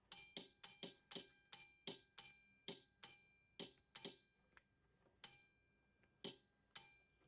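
Faint sharp clicks from a relay module and a 24 V DC 5/2 pneumatic solenoid valve switching on and off as an inductive proximity sensor triggers them, with no air in the valve. The clicks are irregularly spaced, quick at first, then sparser after about four seconds.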